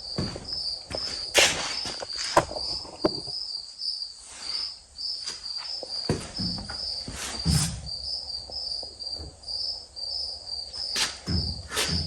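Crickets chirping in an even run of short high chirps, about three a second, with a few scattered knocks and clunks over them.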